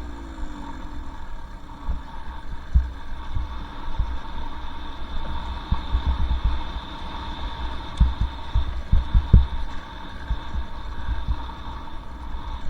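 Two-stroke dirt bike riding a trail, its engine note falling off at the start and then running low and muffled, under irregular low thumps and rumble of wind buffeting and trail bumps on the bike-mounted microphone.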